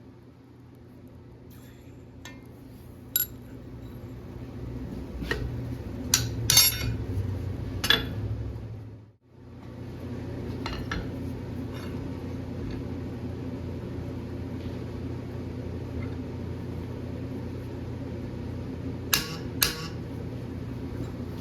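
Steel stock and blacksmithing tools clinking and knocking against metal at irregular intervals over a steady mechanical hum. Two louder clinks come near the end, and the hum cuts out briefly about nine seconds in.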